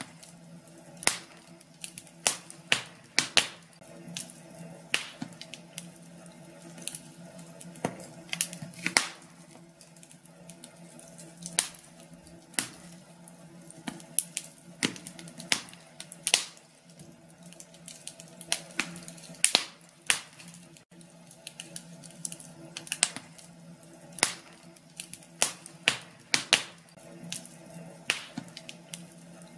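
Wood fire in a fireplace crackling, with irregular sharp pops, several close together at times, over a steady low hum.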